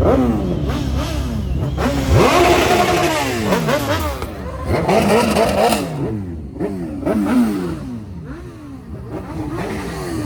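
High-performance engines revving hard and repeatedly, the pitch climbing and dropping with each rev. The revving is loudest about two seconds in and again around five seconds, then grows quieter.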